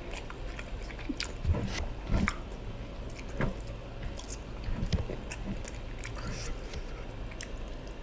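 Close-miked chewing and wet mouth clicks from a person eating ofada rice and stew with fish: irregular short smacks and ticks scattered throughout.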